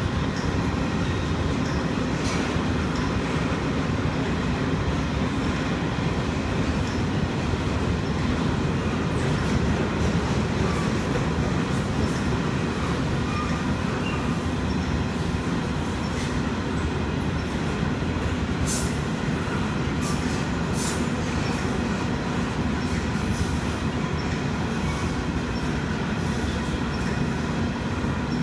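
Freight train of potash covered hopper cars rolling slowly past as it slows down, with a steady rumble of wheels on the rails. Short high-pitched wheel squeals come and go in the second half.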